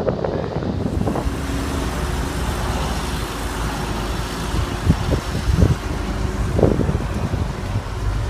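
Steady rumble of road traffic, with a few light knocks in the second half.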